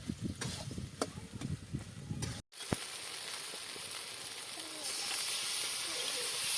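Food frying in a cooking pan, with crackling and sharp clicks of stirring. After an abrupt cut about two and a half seconds in, a steady sizzling hiss follows and grows louder about two seconds later.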